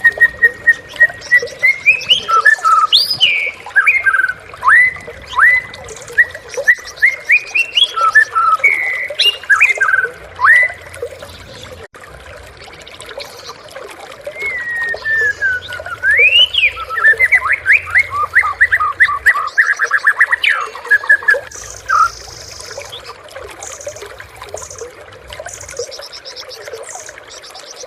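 White-rumped shama (murai batu) singing: a long held whistle, then a run of varied rising and falling whistled phrases. After a pause about ten seconds in, it gives a falling whistle and a fast series of repeated notes, going quiet about twenty-two seconds in.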